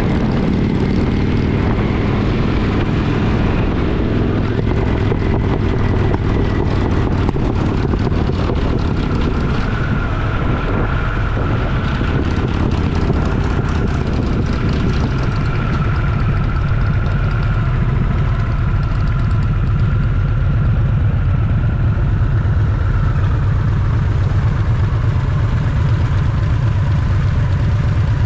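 Twin-cylinder motorcycle engine running steadily on the move, with wind noise on the microphone.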